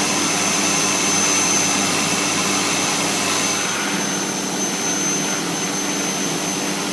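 CNC router spindle running with a 1/2-inch end mill cutting the profile of a scrap board, over the steady noise of the vacuum hold-down pump. The whole is a steady machine noise with a thin high whine, slightly softer in the upper range after about three and a half seconds.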